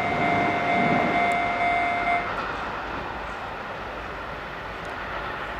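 Chichibu Railway 6000 series express train moving away after passing a level crossing, its rumble fading. A steady electronic tone, the crossing alarm, cuts off abruptly about two seconds in.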